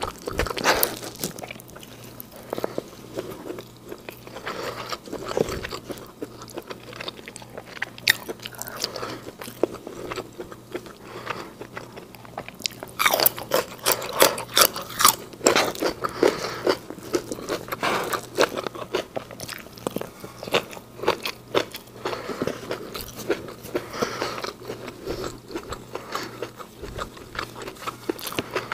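Close-miked chewing and biting of food, wet chewing of fried rice and fish balls, with a run of loud crunches about halfway through as raw green beans are bitten.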